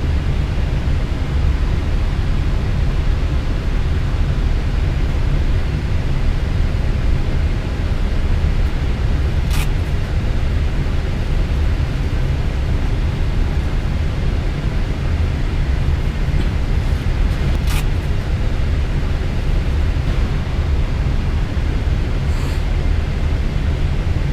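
Steady low rumble of an Airbus A320 cockpit while taxiing after landing, the engines and airframe running continuously, with a few short clicks about ten, eighteen and twenty-two seconds in.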